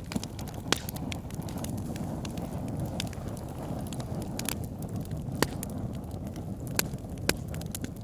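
Wood fire burning in a fireplace: a steady low rumble of flames with scattered sharp crackles and pops, the loudest about three-quarters of a second in and several more in the second half.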